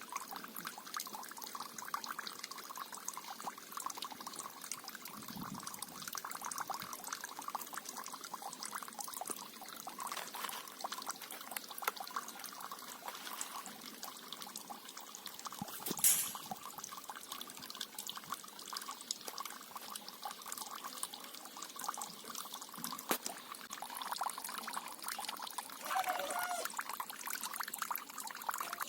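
Running water trickling and splashing steadily, with a brief louder rush about halfway through.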